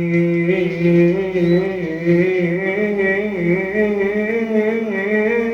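A man's solo voice singing one long drawn-out Arabic qasida phrase, the pitch wavering in small ornaments and stepping up about halfway through.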